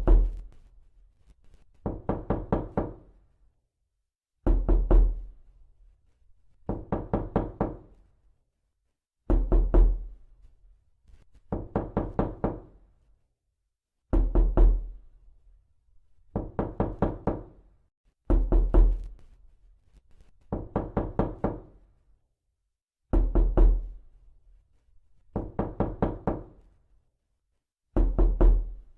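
Knocking on a door in quick runs of four or five knocks, a run about every two seconds, repeating over and over. Every other run is heavier, with a deeper thud.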